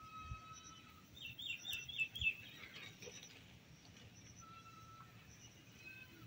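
Wild birds calling in the background: a quick run of five or six falling chirps about a second in, and a thin held whistle at the start and again near the end, with faint high repeated notes throughout.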